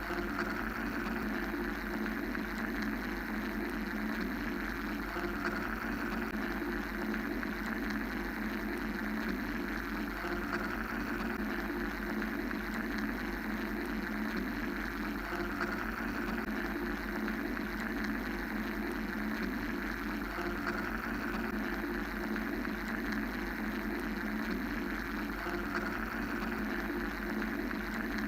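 Steady mechanical white-noise drone made of a low hum and two hissing bands, swelling gently about every five seconds.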